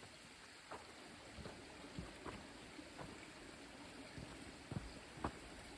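Soft, irregular footsteps on a trail, about one every half second to second, over the faint steady rush of a creek.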